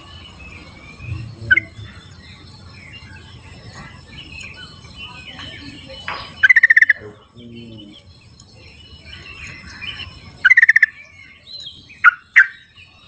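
Yellow-vented bulbuls calling in the wild: loud, fast bubbling phrases about six and a half seconds in and again about ten and a half seconds in, with sharp single notes between, over quieter chatter from other birds.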